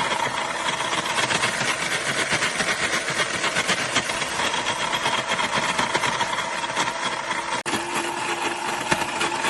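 Electric ice shaver running, its stainless-steel blades grinding ice cubes into shaved ice: a steady, dense grinding rattle, broken off for an instant about three quarters of the way through.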